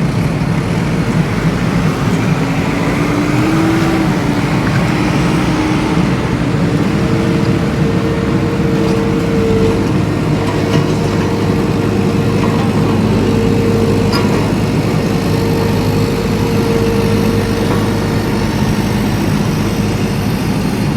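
Engine of a homemade mini tractor running steadily, with a faint whine that rises slightly a few seconds in and then holds.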